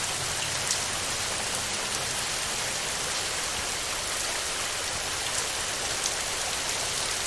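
Steady heavy rain falling on a metal roof, with a few sharper drop ticks standing out now and then.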